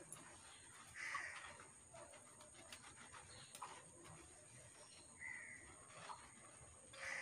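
A few faint, short bird calls, about three, spaced a few seconds apart.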